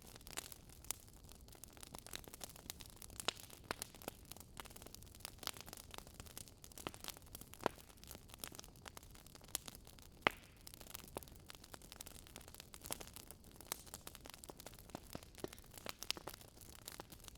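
Wood fire crackling: irregular sharp pops and snaps over a soft steady hiss, with a few louder pops.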